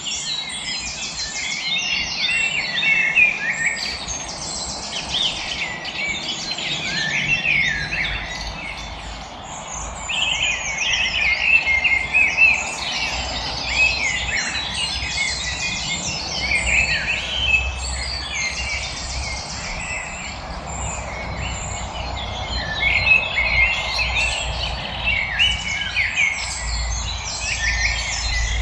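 A chorus of songbirds, many chirping and singing at once, with overlapping calls and fast high trills.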